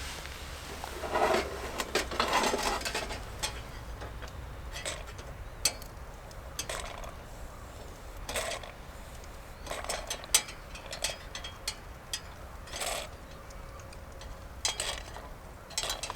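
Scattered clinks and knocks of cookware and utensils being handled, with a few short rustles.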